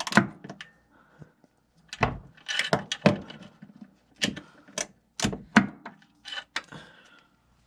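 Metal tools knocking and clinking as a socket wrench on an extension is worked against a stubborn engine bolt, a dozen or so separate sharp knocks at uneven intervals, some with a short metallic ring.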